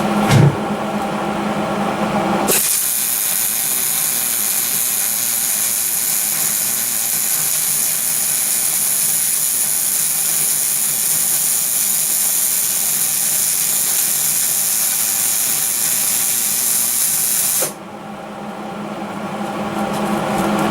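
Electric arc welding a caster mounting plate: a steady crackling hiss that starts about two and a half seconds in and cuts off abruptly about three seconds before the end. A low steady hum and one brief thump come before the weld starts, and the hum returns after it stops.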